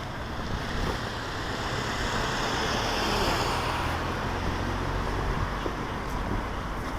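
A car driving past, its tyre and engine noise swelling to a peak about three seconds in and fading, over a steady low traffic hum.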